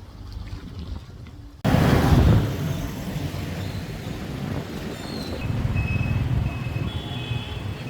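Road traffic noise: a steady low rumble of passing vehicles that starts abruptly about a second and a half in, after a quieter stretch.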